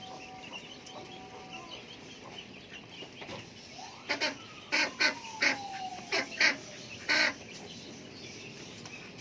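Chickens clucking while they feed, with a run of short, loud calls between about four and seven seconds in.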